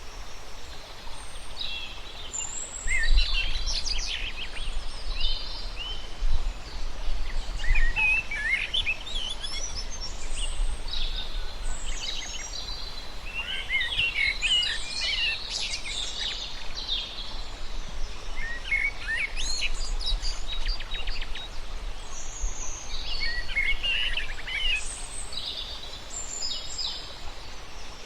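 Several songbirds singing and chirping in quick, overlapping short phrases over a steady rush of running water.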